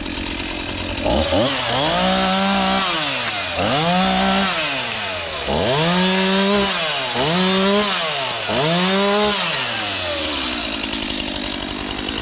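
Two-stroke chainsaw revved to full throttle and let back to idle five times in a row, about one and a half seconds apart, each rev holding briefly at the top before dropping away.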